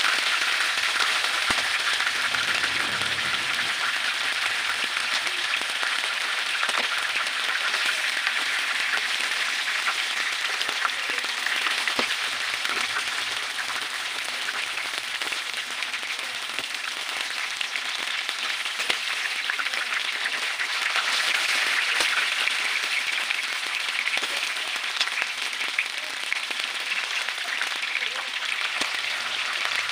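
Battered squid and squid tentacles frying in hot oil in a pan: a steady sizzle with dense fine crackling and popping.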